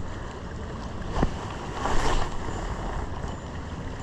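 Shallow salmon stream running, with wind buffeting the microphone. A short knock about a second in, then a louder brief splash-like rush about two seconds in.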